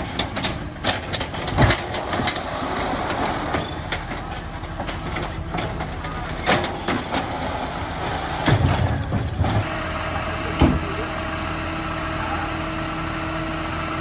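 Garbage truck at work: a run of sharp knocks and clatter over its running diesel engine, with a heavy low surge near nine seconds in, then the engine idling steadily from about ten seconds in.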